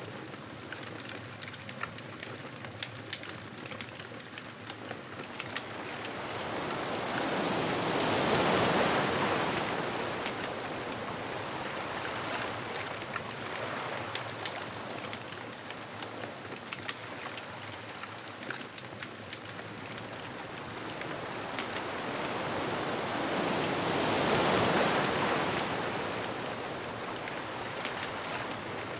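Ocean waves breaking and washing up the beach: two slow swells, about a quarter and nearly the whole way through, each rising and falling over several seconds, over a constant hiss of surf with scattered small crackles.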